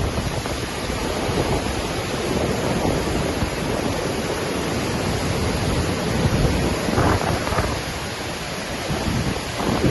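Waterfall: the steady rush of falling water, with wind gusting on the microphone.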